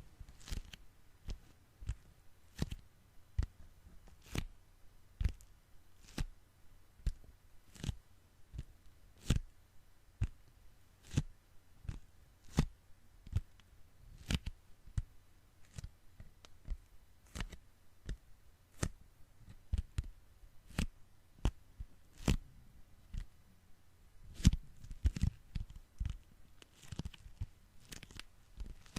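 Sticky, tacky hands pressed together and pulled apart, making short sharp sticky pops and crackles about one to two a second, with a quicker run of them near the end.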